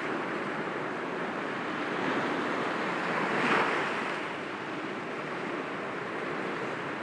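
Sea waves breaking gently against rocks: a steady rush of surf that swells to a peak about three and a half seconds in, then falls back.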